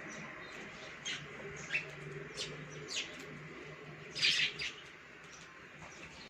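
Baya weavers chirping: a string of short, high chirps, then a louder, buzzy burst of chattering a little past the middle.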